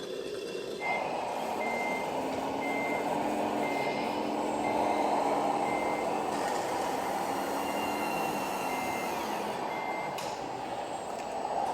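RC scale model truck's sound module playing a reversing beeper over a simulated diesel engine: evenly spaced beeps about one and a half per second, starting with the engine sound about a second in and pausing near the end.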